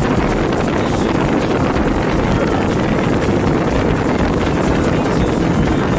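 Speedboat motor running steadily at speed across the lake, with heavy wind buffeting the microphone.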